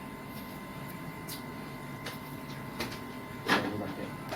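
A few faint clicks and one sharp knock about three and a half seconds in, over a steady electrical hum with a faint high whine.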